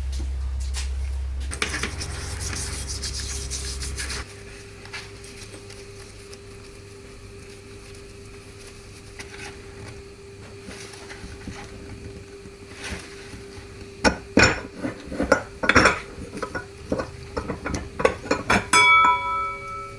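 Metal transmission parts being handled on a workbench: first faint, then a run of sharp clinks and clanks in the last few seconds, one piece left ringing briefly near the end. A low hum stops about four seconds in.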